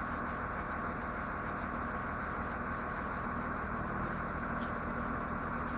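Engine of a powerline work vehicle (bucket truck or crane) idling steadily, an even hum with no change.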